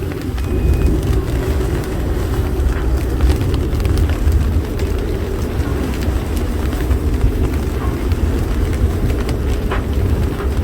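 Wind buffeting the microphone on a sailboat in a storm, a loud steady low rumble.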